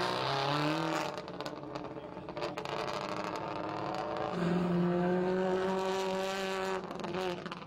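Rally car engine at high revs. The pitch climbs at the start, then there is a stretch with sharp clicks and clatter, then a steady held note for a couple of seconds before the revs fall away near the end.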